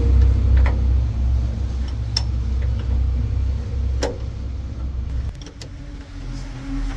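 A vehicle engine rumbling steadily, dropping away sharply about five seconds in, with a few sharp metallic clinks over it.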